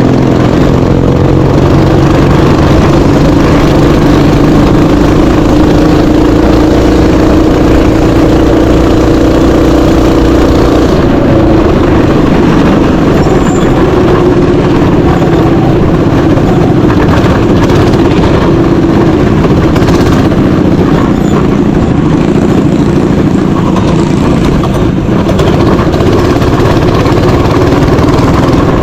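Small mini bike engine running continuously, its pitch and tone shifting about eleven seconds in as the throttle changes.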